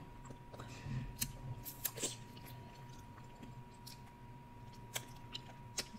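Soft chewing and mouth clicks close to the microphone while eating seafood, with scattered clicks thickest in the first two seconds and again near the end.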